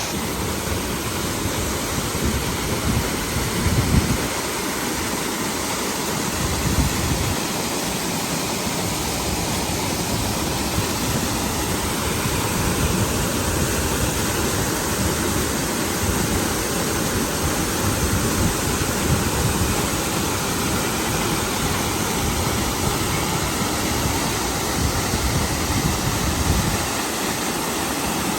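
Waterfall rushing in a steady, unbroken roar of water, with a few brief low bumps on the microphone.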